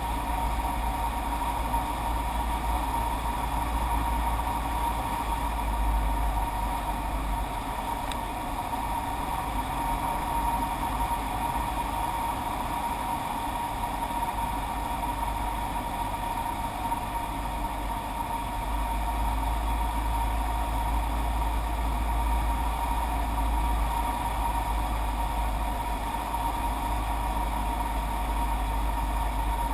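Heavy wind buffeting the microphone as a rumble that rises and falls, over a steady engine-like drone with a steady high tone.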